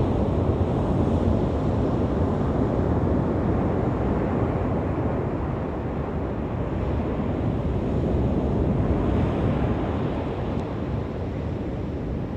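Waves washing onto a beach, a steady rush that swells and eases, with a wave breaking brighter about nine seconds in. Wind rumbles on the microphone underneath.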